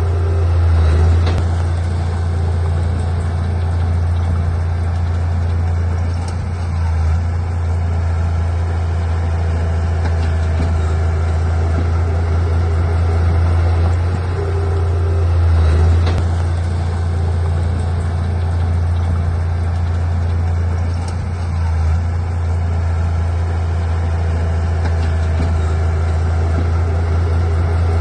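Diesel engine of heavy earthmoving equipment running steadily with a deep, constant drone, with a couple of brief clanks.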